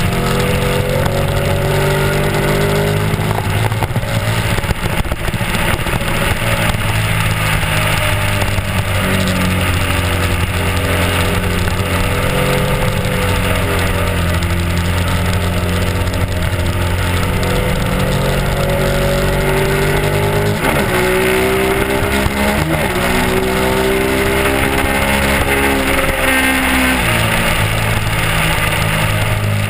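Honda RC51's 90-degree V-twin engine running under way on the road, its pitch holding fairly steady, then dipping and rising again a little past two-thirds in, and dropping near the end as the throttle and gears change. A steady rush of wind and road noise runs under it.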